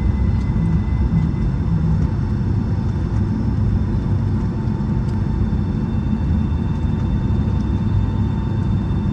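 Cabin noise inside a Boeing 757-232 on the ground, its Pratt & Whitney PW2037 engines idling: a steady low rumble with a faint, thin, steady whine over it.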